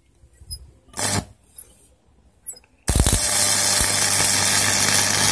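Arc welder striking an arc almost three seconds in: a sudden loud, crackling hiss over a steady low hum. The welder is working again after its repair. A few small clicks and a knock come before the arc.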